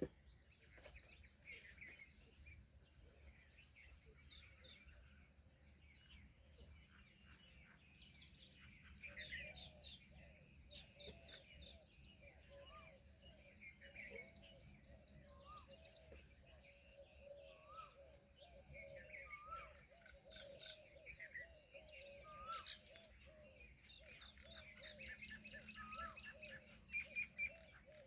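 Faint chorus of several birds chirping and trilling, with one short rising note repeated every second or two through the middle.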